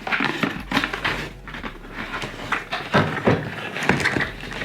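Cardboard and plastic packaging being opened and handled by hand: irregular rustling, scraping and small knocks.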